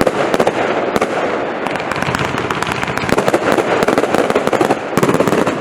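Lightning Storm compound firework firing: a dense, rapid barrage of cracks and bangs with no let-up. It ends with a final thick flurry that stops abruptly, leaving a fading rumble.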